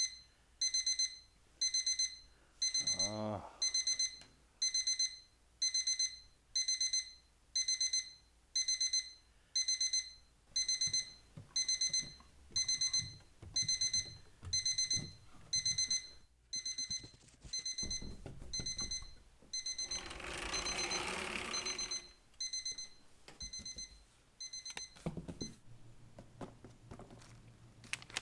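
Digital alarm clock beeping in clusters of rapid high beeps, repeating about once a second, then stopping a few seconds before the end. A brief burst of rustling comes about two-thirds of the way through.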